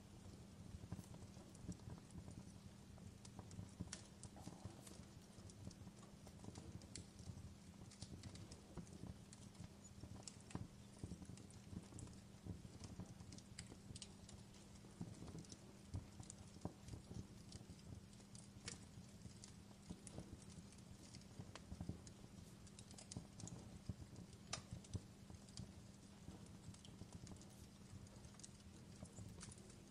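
Faint crackling of a burning log fire: irregular sharp snaps and pops over a low steady rumble.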